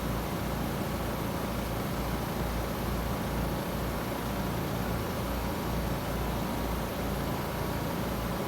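Trane XR14 heat pump outdoor unit running steadily in cooling mode: the condenser fan's whoosh over the compressor's low hum, which pulses about twice a second.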